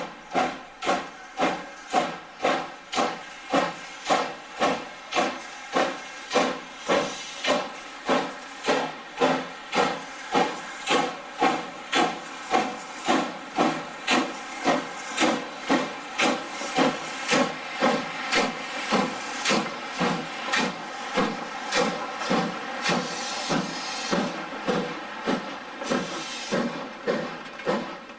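Steam locomotive exhaust chuffing in a steady beat, about two chuffs a second at first, speeding up until the beats run together from about twenty seconds in.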